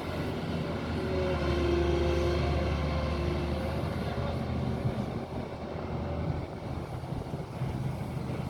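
Heavy diesel engine running steadily, growing louder under load for a couple of seconds about a second in, with a whine rising over the engine note before it settles back.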